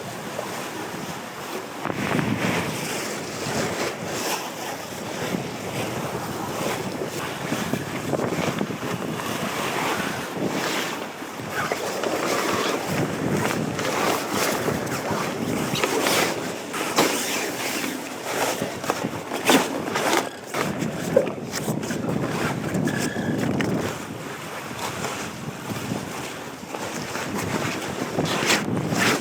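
Sea water rushing and splashing past a sailing boat's hull in rising surges, with wind buffeting the microphone. A few sharp knocks come from about the boat partway through.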